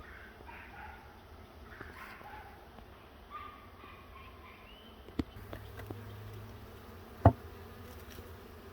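Honeybee swarm buzzing as a low steady hum, with two sharp knocks about five and seven seconds in, the second one loud.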